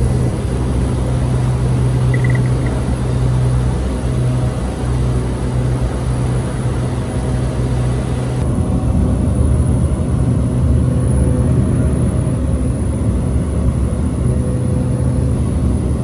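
Cessna Grand Caravan's single turboprop engine heard from inside the cabin: a loud, steady drone with a strong low hum. The sound changes slightly about eight seconds in.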